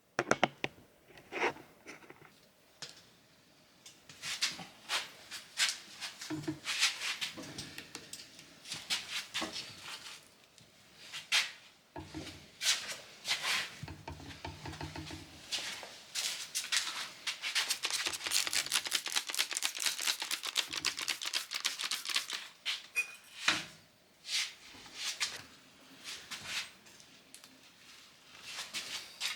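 Tire bead being levered over a steel VW wide-five wheel rim on a manual tire changer: irregular clicks, scrapes and rubber rubbing, with a fast run of ticks for several seconds past the middle.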